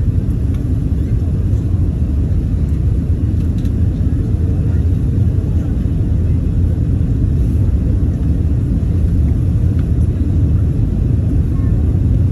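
Steady low rumble of an Airbus A380 heard from inside the passenger cabin: engine and airflow noise at an even level.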